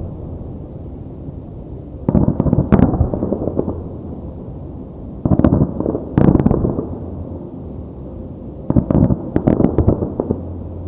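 Fireworks display: three volleys of shell bursts and crackle, a few seconds apart, with a steady low rumble between them.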